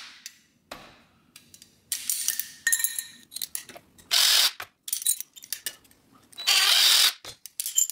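Power drill run in two short bursts with a 9/64 bit, with clinks and clatter of metal parts being handled in between.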